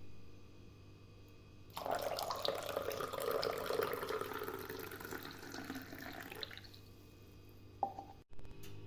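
Water running or liquid pouring for about five seconds, starting about two seconds in and then stopping, with a short knock near the end.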